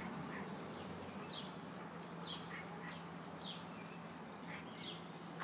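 A bird repeating short, high chirps that fall in pitch, about once a second, faint over a steady low hum.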